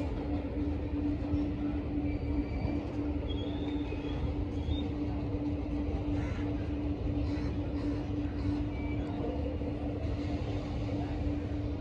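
Container freight wagons rolling past on the track: a steady rumble of steel wheels on rail, with a continuous droning tone running through it.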